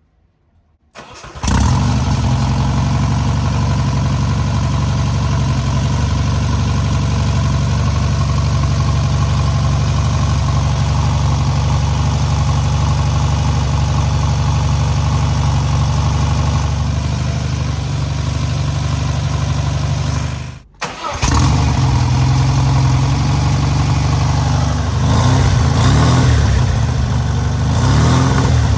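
Newly rebuilt air-cooled VW 1600cc flat-four engine catching about a second in and then running steadily on its first start. Around twenty seconds in the sound cuts out for a moment, then the engine runs again, with the revs rising and falling near the end.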